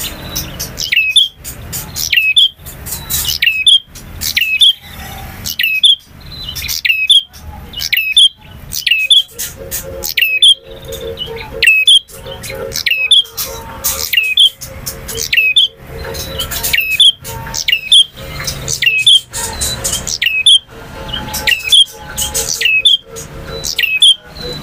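Male prinia (prenjak) singing: sharp, high chirping phrases repeated about once a second. A faint steady hum sits under the song in the middle stretch.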